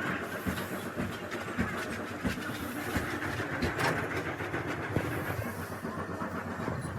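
Steady mechanical running noise with irregular light knocks and clicks scattered through it.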